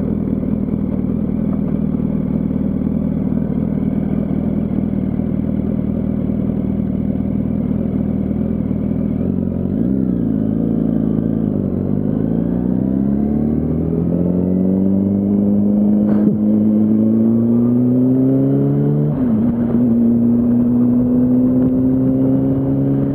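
Yamaha R1's inline-four engine at low road speed, holding a steady pitch for about ten seconds. It then dips briefly and climbs steadily as the bike accelerates, drops in pitch at an upshift a few seconds before the end, and climbs again. A single sharp click comes about two-thirds of the way through.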